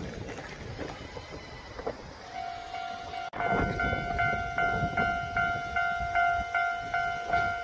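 Train running with a rumble. From a couple of seconds in, a steady ringing tone joins it and pulses about two and a half times a second. The sound drops out for a moment a little past three seconds in.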